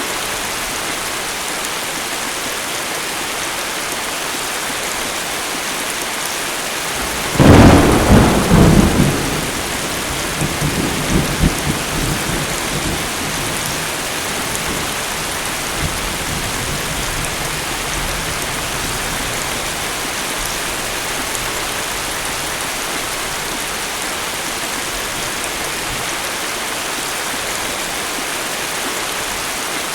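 Heavy tropical rain falling steadily, with a loud thunderclap about a quarter of the way in that cracks sharply and then rumbles for several seconds before fading back into the rain.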